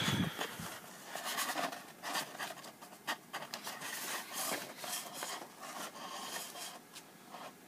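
Paper instruction booklet being handled and leafed through: an irregular run of soft, scratchy rustles.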